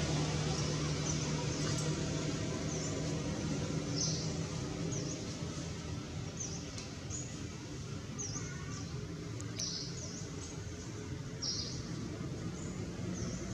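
A small bird chirping repeatedly: short, high, downward-sliding notes roughly once a second, over a steady low background hum.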